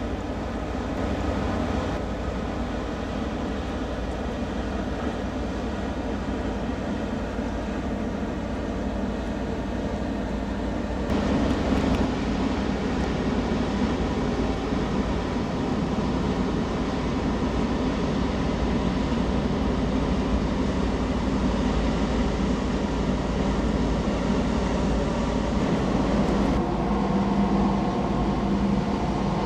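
Steady low ship engine drone, a constant hum over a wash of background noise, growing louder and fuller about a third of the way in.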